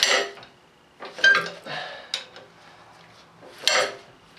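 Breaker bar and socket clanking and rattling as the bar is swung down hard on a stuck crankshaft bolt of a Cummins diesel, using its weight to shock the bolt loose: about four ringing metal clanks.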